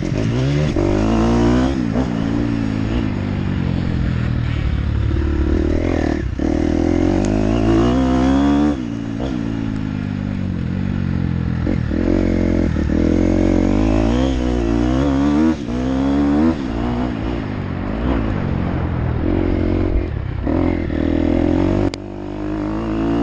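Motocross dirt bike engine revving hard, its pitch climbing and dropping over and over as the rider opens and shuts the throttle and shifts gears, with scattered knocks and clatter.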